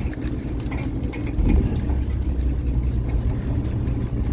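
Fishing boat's engine running steadily with a low hum, growing louder about a second and a half in, with scattered light clicks and knocks over it.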